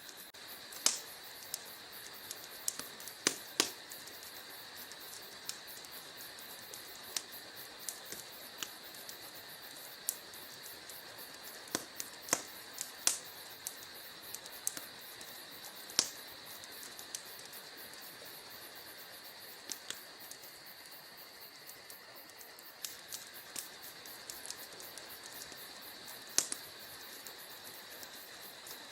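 Wood fire burning in a fireplace, crackling with irregular sharp pops and snaps over a steady faint high hiss.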